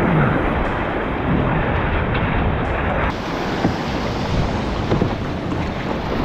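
Steady wind buffeting the microphone over the wash of ocean waves, with a couple of short knocks in the second half.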